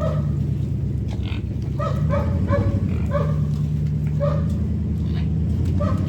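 Truck engine running low and steady while backing a trailer, with a series of short, pitched animal calls over it: several in quick succession about a second or two in, one more midway and a couple near the end.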